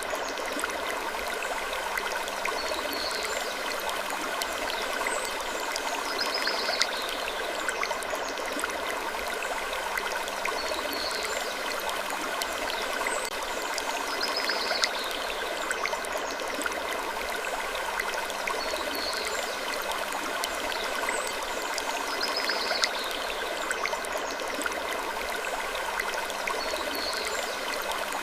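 Wood creaking over a steady, rushing background wash, with short, high, falling creaks that recur every couple of seconds in an even loop.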